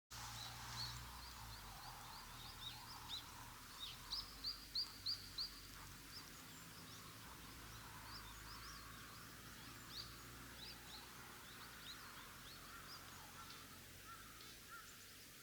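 Birds chirping and calling over a steady faint hiss of outdoor ambience, with a quick run of about six louder repeated notes about four seconds in.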